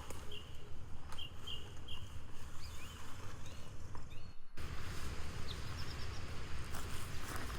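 Forest ambience: small birds giving short high chirps and little rising calls over a steady low rumble, with a brief dropout just past halfway.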